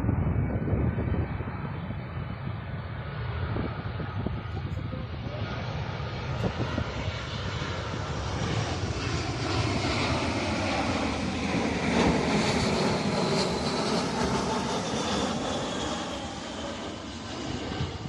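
Jet airliner on final approach passing close by: the engine whine and rush grow steadily louder, peak about two-thirds of the way through, then begin to fade.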